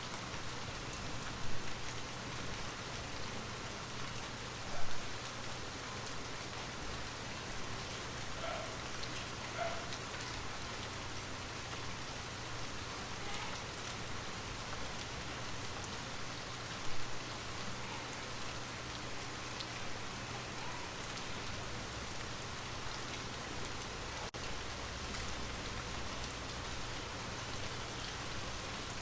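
Steady rain falling, an even hiss of drops, with three louder taps standing out, the loudest about five seconds in.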